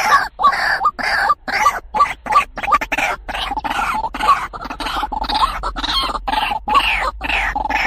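White-breasted waterhen (truwok) calling in a loud, fast, even run of repeated calls, about two to three a second.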